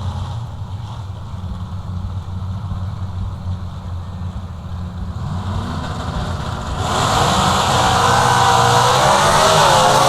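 Pro Stock drag car's V8 engine heard on board, running with a low rumble, then about seven seconds in revving up sharply and staying loud at high revs.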